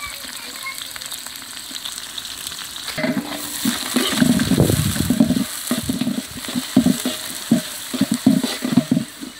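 Sliced shallots and dried red chillies sizzling as they fry in a metal pot over a wood fire, a steady hiss throughout. From about three seconds in, a ladle scrapes and knocks against the pot in quick, irregular strokes as the onions are stirred.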